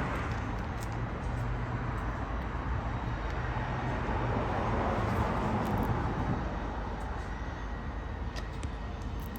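Cammed 2008 Impala SS's V8 running through a straight-piped 3-inch exhaust: a steady low drone under a broad rush of road noise, swelling slightly midway.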